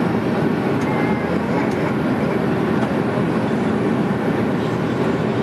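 Steady cabin drone of an Airbus A310 airliner in flight: engine and airflow noise heard from inside the cabin, a constant low rumble with no change in level.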